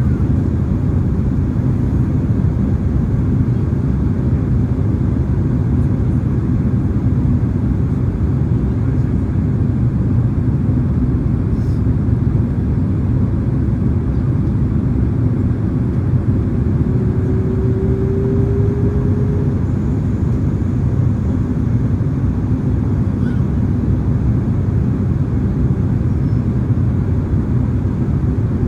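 Boeing 767-300ER cabin noise in flight: the steady low rumble of the jet engines and airflow, heard from inside the passenger cabin. A faint, slightly rising tone is held for about three seconds, roughly two-thirds of the way through.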